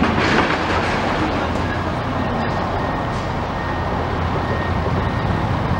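Steady engine noise of heavy demolition machinery, with a short clattering burst at the start and a faint steady high tone joining about two seconds in.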